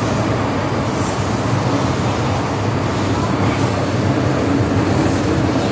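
Inside a moving MTR M-Train carriage: the steady running noise of the train at speed, a low rumble of wheels on rail and running gear.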